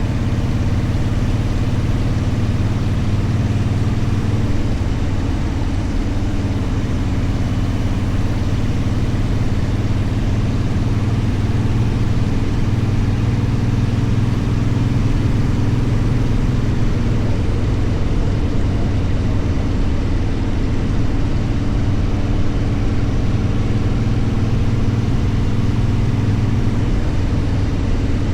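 Motorcycle engine running steadily, a constant low hum with no revving or shifting, heard from on the bike.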